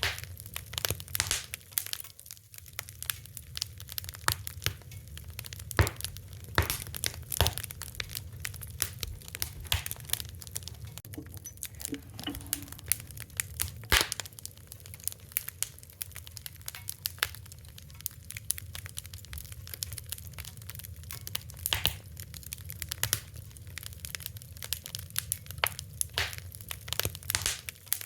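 Fire crackling: irregular sharp pops and snaps, some louder than others, over a steady low rumble.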